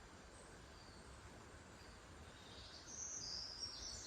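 Faint birdsong over a low steady outdoor background: a few short, high chirps, then from about two and a half seconds in a louder, high warbling song.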